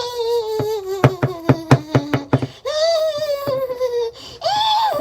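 A child's voice holding long wordless notes: the first slides slowly down in pitch, a second follows about halfway through, and a third starts just before the end, over a series of sharp clicks.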